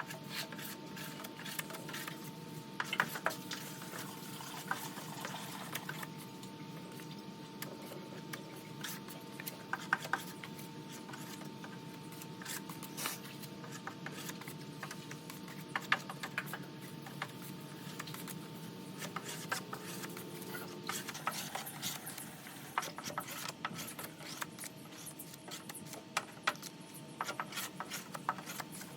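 Hand work on a car body: rubbing and scraping sounds with scattered small clicks and metallic clinks, over a steady faint hum.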